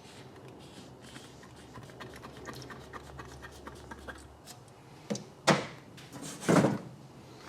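Quiet handling of paint-mixing containers with small clicks, then a short knock about five seconds in and a louder clunk about a second and a half later.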